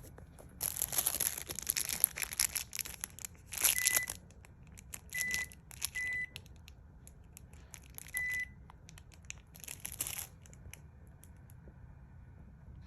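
Plastic packaging being crinkled and handled in bursts, with four short single-pitch electronic beeps in the middle, like an appliance's buttons being pressed.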